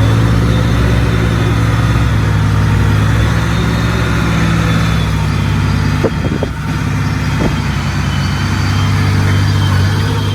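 Heavy diesel engine of earthmoving equipment running steadily at working speed, with a few short metallic knocks about six to seven and a half seconds in.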